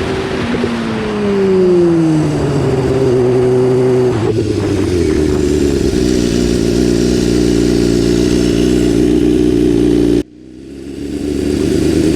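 BMW S1000RR inline-four engine note falling in pitch as the bike slows, then holding a steady pitch. About ten seconds in, the sound cuts out abruptly and swells back over about a second.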